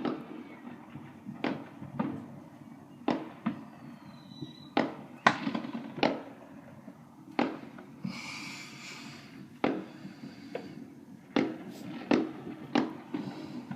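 Fireworks going off: about a dozen sharp bangs at irregular intervals, with a short hissing spell about two-thirds of the way through.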